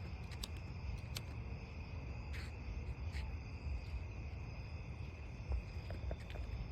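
Crickets trilling steadily at night, with a low rumble underneath and a few faint clicks.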